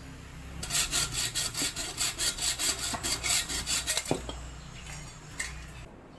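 A hand tool is worked rapidly back and forth on a workpiece, making rasping strokes at about four a second for roughly three seconds. A short knock follows as the strokes stop.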